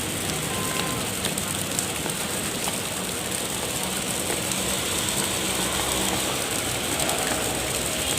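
Heavy rain falling steadily, an even rushing hiss made up of many small drop hits.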